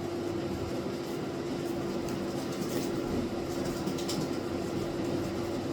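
A steady mechanical hum with one constant tone and a low hiss, with a few faint scratches about halfway through.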